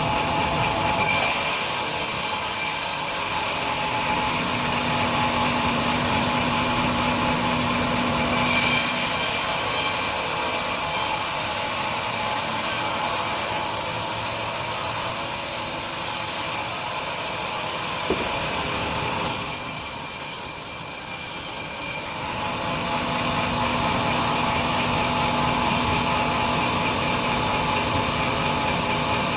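Large industrial band sawmill running, its blade cutting lengthwise through a big log. A steady machine hum with a high hiss from the cut that comes and goes as the blade works through the wood.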